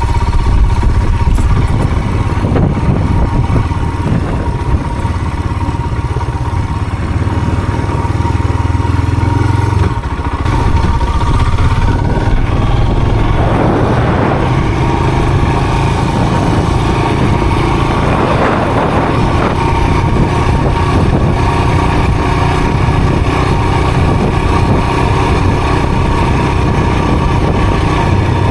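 A motor vehicle's engine running steadily, with a thin steady whine above it; the engine note changes about ten seconds in, and short swells of rushing noise come through later.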